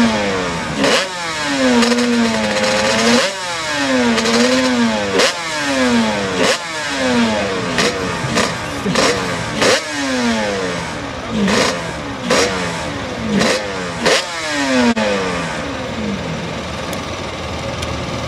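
1985 Honda NSR500's two-stroke V4 race engine being revved on its stand. The throttle is blipped again and again, about once a second, so the pitch jumps up sharply and falls away each time, then settles into a steadier idle for the last few seconds. The engine is running poorly, too rough to be ridden.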